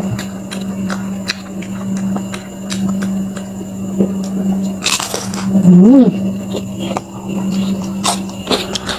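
Crisp crackling and crunching of chewing deep-fried battered octopus, with many small crackles over a steady low hum. About five seconds in there is a loud rush, then a short hum that rises and falls in pitch.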